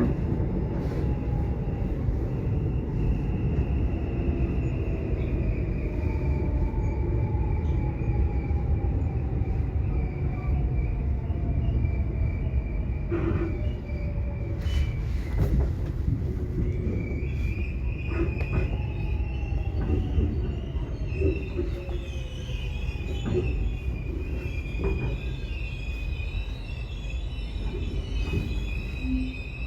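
Subway train running: a steady low rumble with a thin high squeal above it. A lower whine slides slowly down in pitch twice, and there are a few scattered clicks.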